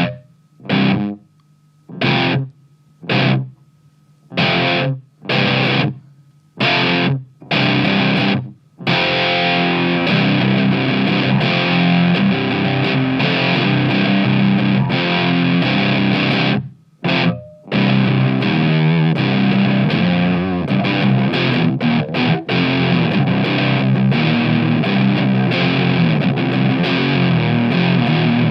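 Electric guitar played through an MXR MC402 boost/overdrive pedal, engaged, into an amp on its clean channel. It gives a clean, mildly overdriven drive tone with a lot of lows. About nine short chord stabs ring one by one, then continuous riffing follows, with a brief break about seventeen seconds in.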